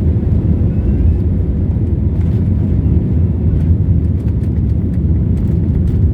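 Steady low rumble of a passenger airliner's engines and airflow, heard from inside the cabin, with a few faint clicks in the second half.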